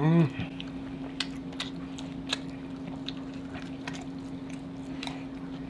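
Close-miked mukbang eating sounds: scattered wet chewing clicks and smacks of mouths eating corn on the cob and seafood boil. A brief vocal sound opens it, over a steady low hum.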